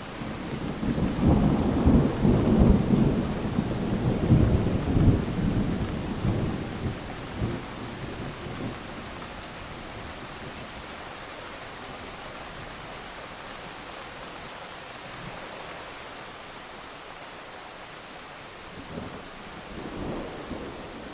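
Rolling thunder over steady rain: a long rumble builds about a second in, is loudest for the next few seconds and dies away by about nine seconds in, with a second, smaller rumble near the end.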